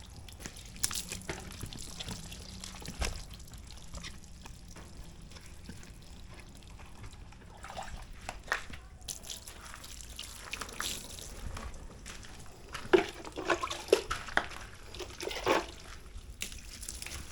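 Water dripping and splashing during a hand car wash, with scattered small splashes and wiping noises. There is a run of louder, sharper splashes or knocks near the end.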